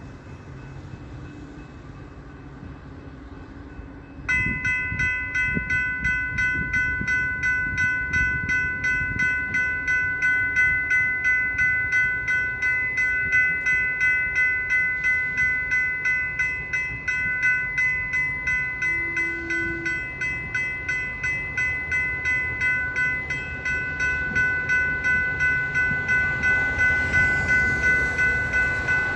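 Railroad grade-crossing warning bell that starts ringing about four seconds in, striking evenly about twice a second as the crossing activates for an approaching train. Near the end a train's rumble begins to rise under it.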